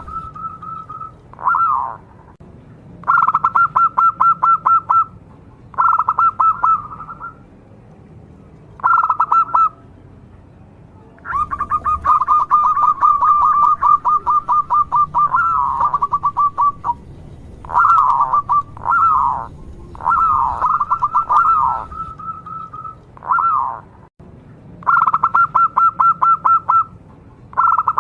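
Local zebra dove (perkutut) cooing: about a dozen phrases of fast, stuttering coos, each a second or two long with short pauses between, one running on for about five seconds near the middle.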